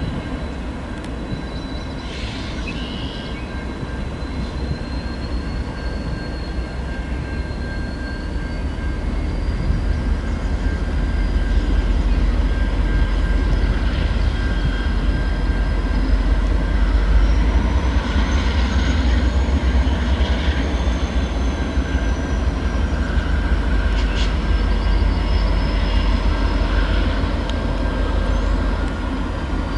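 A train rolling by: a steady low rumble of wheels on rail that grows louder toward the middle, with a thin, high-pitched wheel squeal wavering up and down above it.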